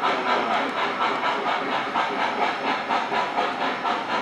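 Electronic steam sound from an O-scale three-rail model steam locomotive's sound system: a rhythmic hiss pulsing a few times a second, played through the model's small speaker.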